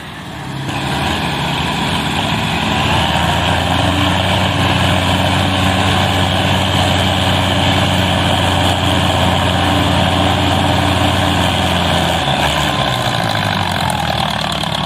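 Tractor diesel engine working hard under load. Its sound swells over the first couple of seconds, holds steady, then drops to a lower note about twelve seconds in.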